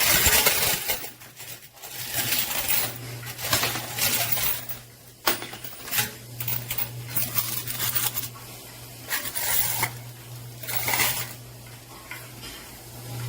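Handfuls of quarters clinking and clattering against one another and against a cup in irregular bursts as they are gathered up, over a steady low hum.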